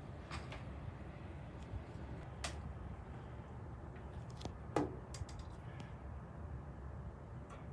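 Steady low rumble, with a few faint clicks and one sharper click about five seconds in.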